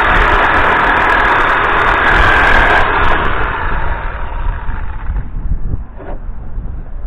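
A motor running steadily and loudly, then dying away over about two seconds, leaving a low rumble.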